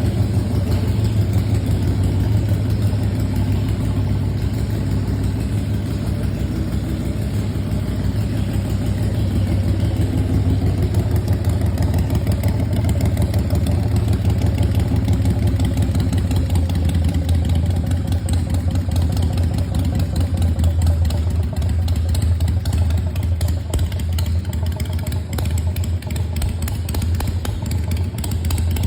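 Straight-piped Harley-Davidson Softail V-twin idling steadily, with a deep exhaust note; the engine has compression-release heads and a big cam.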